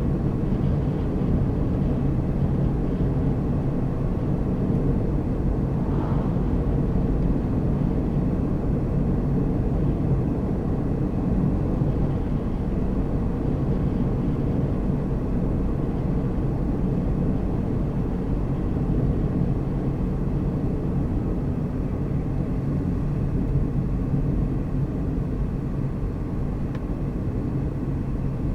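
A car driving along a road: steady engine hum and tyre-and-road noise, even throughout, with a faint brief higher sound about six seconds in.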